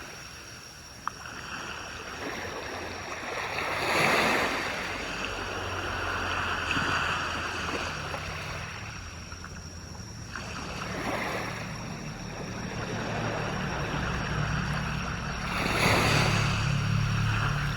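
Waves washing onto a shore: the surf swells and breaks about three times. There is a short click about a second in, and a low steady hum underneath from about five seconds on.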